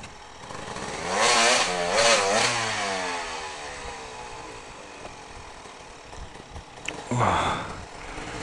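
Dirt bike engine revving hard in bursts, then easing off with its pitch falling away; another short rev near the end.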